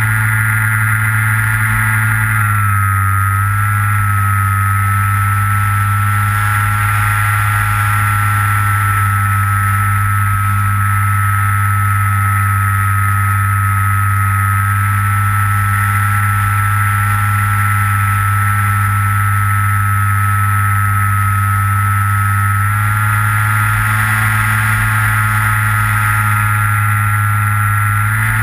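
Electric motor and propeller of a Skywalker FPV plane, heard through its onboard camera, running with a steady whine. The pitch drops slightly about two and a half seconds in as the throttle eases, then rises back a few seconds before the end.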